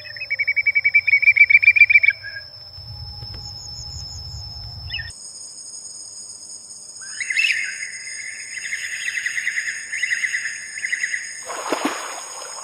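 Birds chirping in two fast runs of rapid, repeated calls, one at the start and a longer one in the second half, over steady high-pitched insect-like trilling. A brief rushing sound comes near the end.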